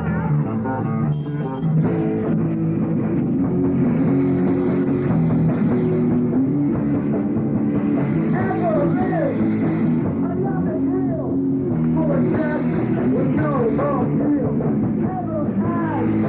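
Live rock band playing an instrumental passage with electric guitar, bass and drum kit. About halfway through, a lead line with bent, gliding notes comes in over the held chords.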